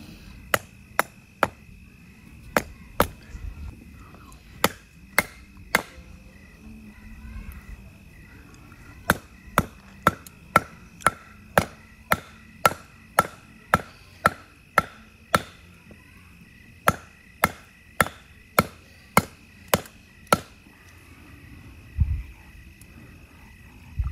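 Repeated sharp chopping blows into a piece of firewood that won't split. A few scattered strikes come first, then a steady run of about two blows a second lasting around ten seconds.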